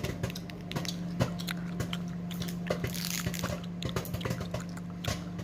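A plastic spice packet being handled, giving scattered small clicks and crinkles with a brief rustle about three seconds in, over a steady low hum.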